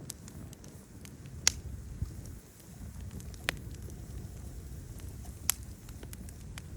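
Wood fire crackling with scattered small clicks and three louder sharp pops about two seconds apart, over a low steady rumble.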